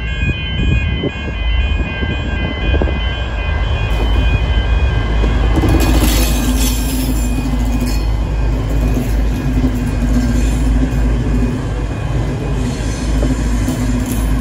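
V/Line VLocity diesel multiple unit running past at close range: a loud, steady rumble of engines and wheels on the rails. A ringing warning tone, likely the level-crossing bells, fades out about six seconds in.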